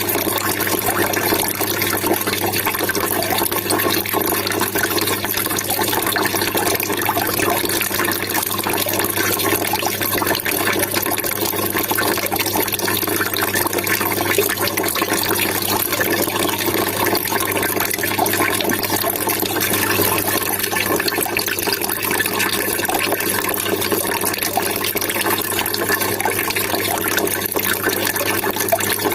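Running water trickling and splashing steadily, with an even, unbroken rush and a low steady hum underneath.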